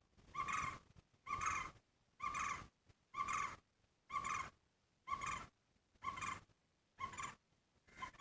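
Green barbet calling: a trilled note repeated steadily about once a second, nine times, the last couple fainter.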